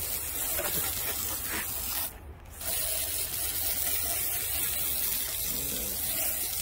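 Tru Cut sawmill running and cutting through a silver maple log: a steady hiss over a low hum. The hiss drops out briefly about two seconds in.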